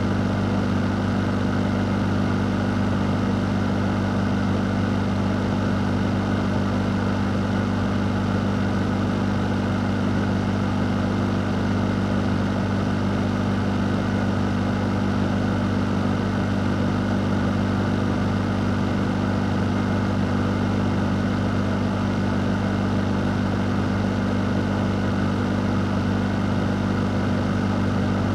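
A fan running steadily: a constant low hum under an even rush of moving air, with no change in speed.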